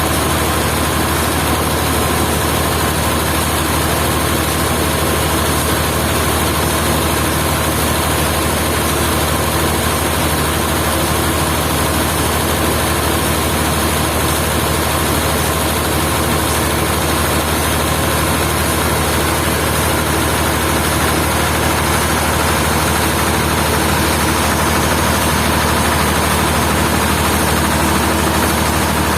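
Sawmill machinery running steadily: a constant, loud engine-like drone with no change in pitch or level.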